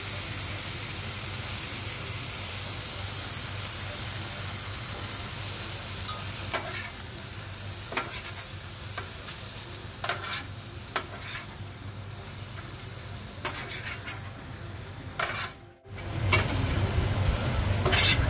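Teriyaki-sauced chicken pieces sizzling on a steel griddle. From about six seconds in, metal spatulas scrape and clack against the griddle as the chicken is turned, every second or two. After a brief drop-out near the end, the sizzling and scraping are louder.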